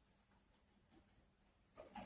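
Near silence: faint room tone with a few tiny ticks, then a quick run of clicks near the end.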